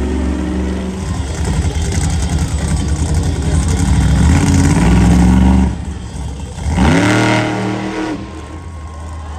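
Monster truck engine running hard under throttle, cutting back sharply about two-thirds of the way through, then revving up steeply once and dropping away again.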